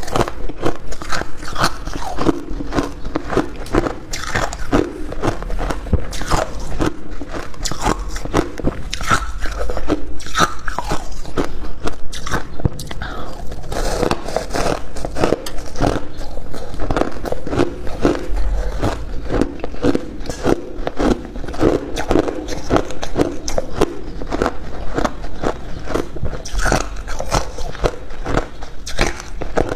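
Close-up crunching of hard ice being bitten and chewed: rapid, dense cracking and grinding as the ice pieces break between the teeth.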